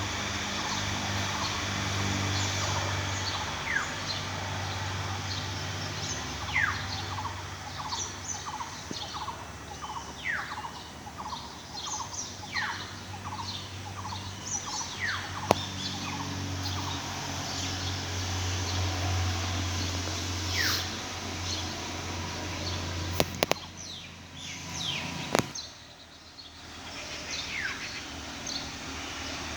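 An oriole and other birds calling, with a clear call that slides down in pitch repeated every couple of seconds and a run of quick chirps in the first half. Under it a steady low engine-like hum comes and goes, and a few sharp clicks fall near the end.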